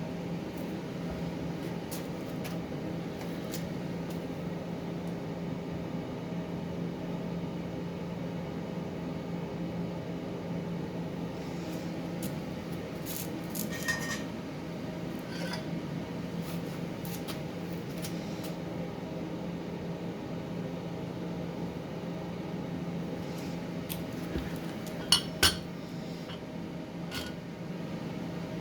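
Sherman 200M MIG welder running idle with a steady low fan hum, not welding. A few light metallic clinks sound over it, and two sharp metal clanks come close together near the end.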